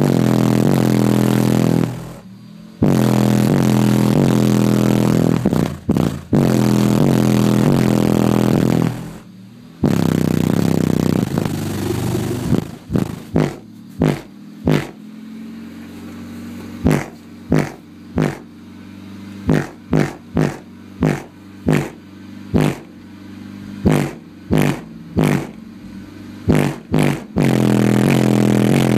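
Everest Sound Labs BDX 18-inch subwoofer, driven by a 5000-watt amplifier, playing a bass test track loudly: long sustained bass notes of a few seconds each, then a run of short bass hits about one a second, then another sustained note near the end. The sub is not yet broken in.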